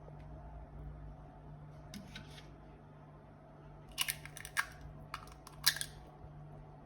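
A handful of sharp clicks and taps: one about two seconds in, then a quick cluster of several between four and six seconds in. A low steady hum runs underneath.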